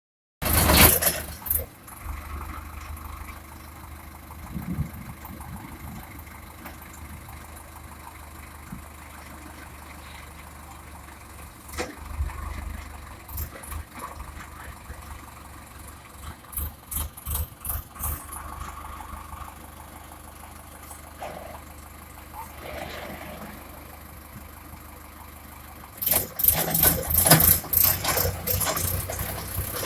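Tractor engine running steadily to drive a ground-drilling machine, with several bursts of sharp knocks and clanks, the loudest cluster near the end.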